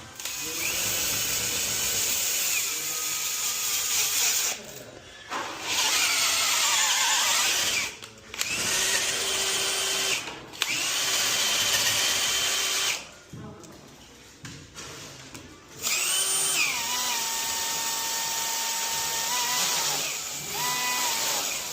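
Electric power drill run in five bursts, its motor whine rising to speed each time. In one burst the pitch sags and recovers as the bit is loaded. The last burst is the longest.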